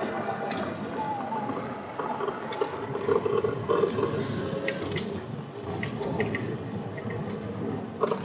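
Road and engine noise inside a moving car on a dusty dirt road, a steady rumble with scattered small clicks and rattles.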